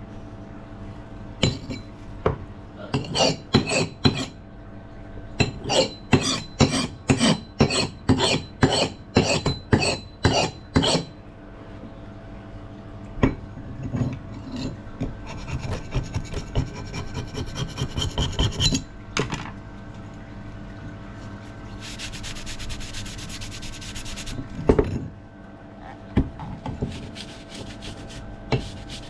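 Rasping strokes as a rusted axe head is worked by hand, about two strokes a second for several seconds, then a few longer continuous rubs, with a single knock near the end.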